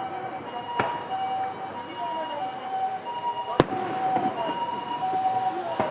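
Two firework shells bursting with sharp bangs, about a second in and again past the middle, over an emergency vehicle's two-tone siren alternating steadily between a high and a low note.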